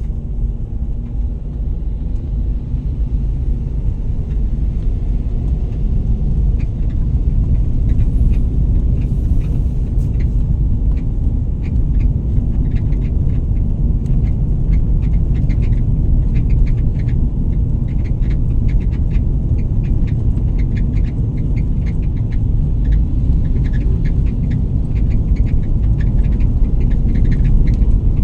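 Steady low road rumble of a moving vehicle. From about six seconds in, light rapid clicking or rattling sits on top of it.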